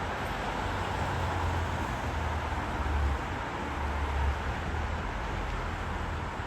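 Steady rumble and noise of a running vehicle, the low rumble swelling a little about a second in and easing off after about four seconds.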